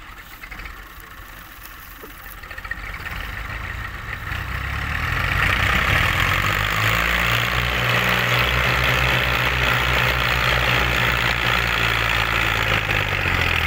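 Massey Ferguson 240 tractor's diesel engine running hard while pulling a heavy loaded trolley. It has a pulsing low engine note and a loud rattly hiss above it. The sound swells markedly about four to six seconds in and then holds steady.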